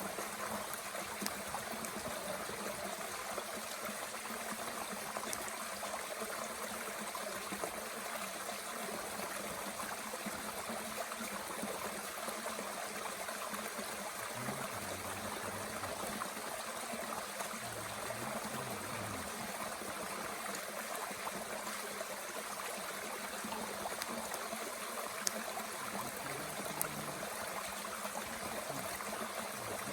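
Mountain stream flowing steadily, with a few faint sharp pops from a small wood fire burning in a Bush Box stove.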